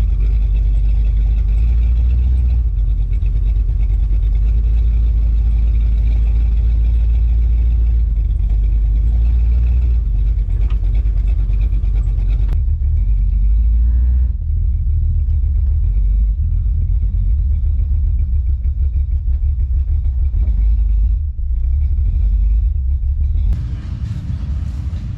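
Steady low rumble of a car, with a fainter hiss above it that drops away about halfway through.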